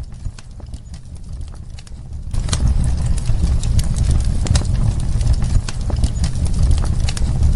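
Wood fire crackling in a fireplace: irregular sharp pops and snaps over a low steady rumble. It grows louder about two and a half seconds in and cuts off abruptly at the end.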